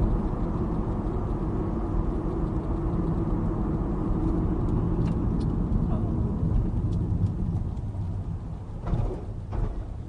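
Road and engine noise of a moving car heard from inside the cabin through a dash camera's microphone: a steady low rumble, with a few faint ticks in the middle and two short louder noises near the end.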